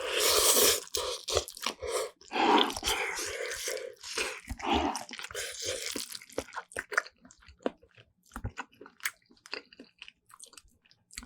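Close-miked eating of instant black bean noodles and side dishes: loud crunchy bites and chewing for about the first five seconds, then quieter chewing with sharp wet mouth clicks.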